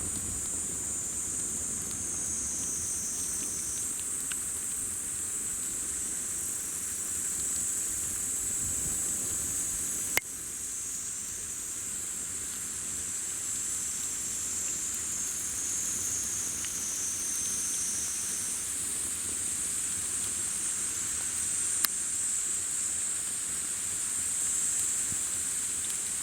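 A chorus of insects calling steadily in a high, continuous band, with two sharp pops from the burning campfire wood, one about ten seconds in and one about twenty-two seconds in.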